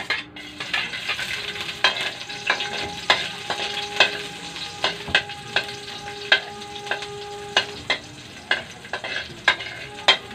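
Sliced garlic and onion dropped into hot oil in a steel wok, sizzling as they fry, with a metal spoon clinking and scraping against the wok as they are stirred. A sharp burst of sizzle marks the moment they hit the oil.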